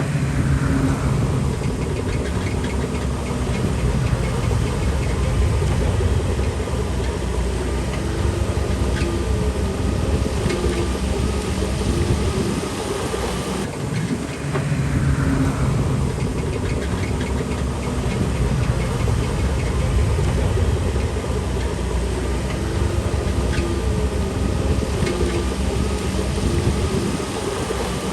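Shantui DH17C3 Pro bulldozer's diesel engine running hard while pushing stone fill, with clanking from the tracks. A falling whine comes near the start and again about halfway through.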